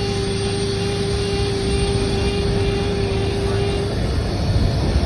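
Train standing with its engine running: a low rumble under a steady whine, the whine stopping about four seconds in.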